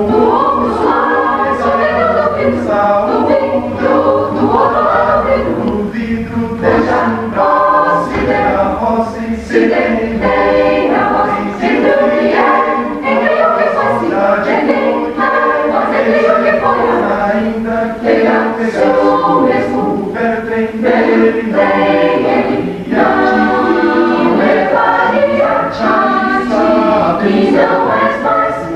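A mixed chamber choir singing in parts, many voices together, entering strongly at the start and holding a steady full level.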